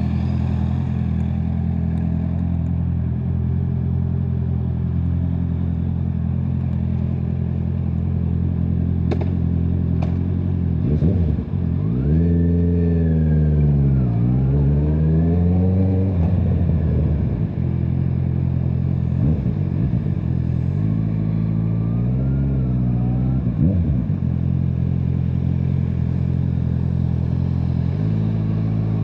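Honda CBR650R's inline-four engine through an Akrapovic exhaust, just started and idling steadily. About eleven seconds in it is revved up and down several times, with smaller blips later and another rise near the end.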